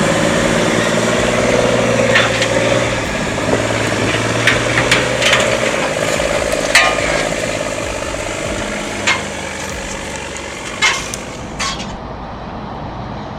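Heavy truck engine running steadily, with scattered sharp clanks and knocks. The engine drone fades over the second half.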